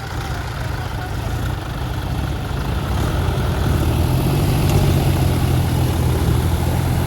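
Tractor engine running steadily, growing louder and working harder from about three seconds in.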